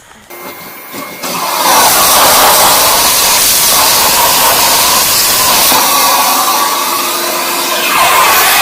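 Corded vacuum cleaner switched on: its motor spins up over about a second and a half, then runs loud and steady.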